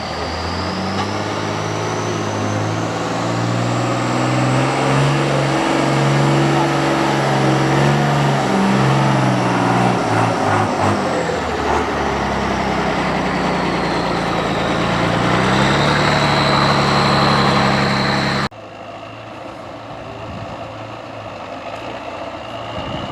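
Truck engine working hard, its pitch climbing and shifting with the revs, then holding steadier. About eighteen seconds in the sound cuts off abruptly to a quieter engine running.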